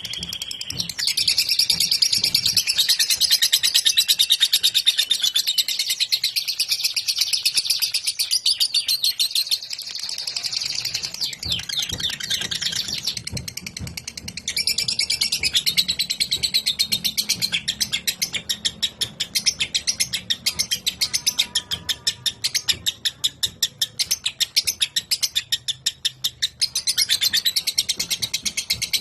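Lovebird singing its long, unbroken chattering 'ngekek' song: rapid high-pitched notes repeated many times a second. It softens for a few seconds and picks up again about halfway through.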